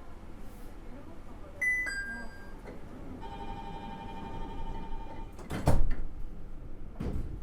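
Door-closing sequence of a Nippori-Toneri Liner 330-series car at a station. A short ringing chime comes first, then a steady electronic warning tone for about two seconds. The doors shut with a loud thump about five and a half seconds in, and a second, lighter thump follows near the end.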